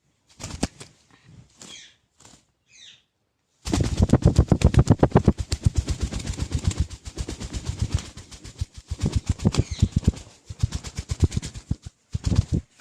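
Alexandrine parakeet beating its wings rapidly, about ten wingbeats a second, starting suddenly a few seconds in and thinning out near the end, with a few short chirps from the bird.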